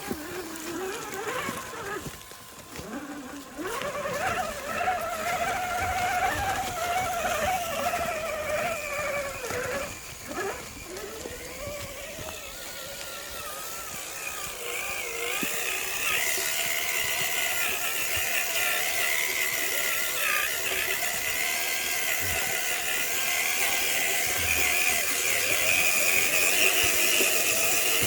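Axial RC scale crawler's electric motor and gear drivetrain whining as it climbs the trail, the pitch rising and falling with throttle. The whine steadies and grows louder about halfway through.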